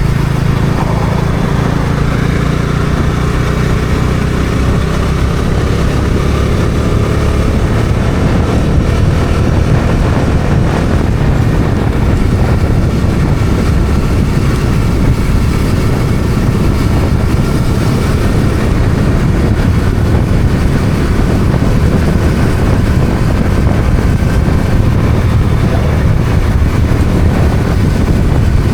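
Bajaj Dominar 400's single-cylinder engine running under way, rising in pitch over the first few seconds as it accelerates, then holding steady, with wind rushing over the microphone.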